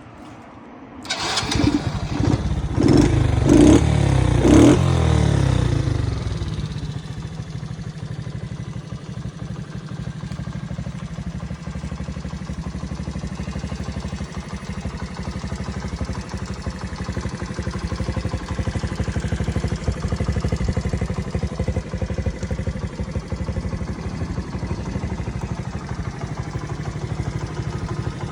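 Honda Magna 50's small single-cylinder four-stroke engine starting about a second in and being revved in several quick blips. It then settles into a steady idle.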